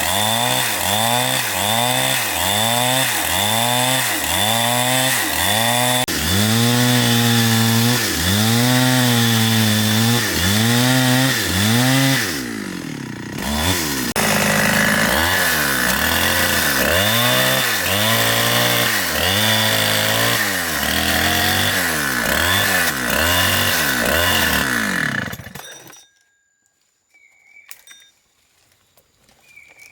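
Chainsaw cutting into a big tree trunk, its engine pitch rising and falling about once a second as the chain bites and frees in the wood. It drops briefly about halfway through, then stops near the end.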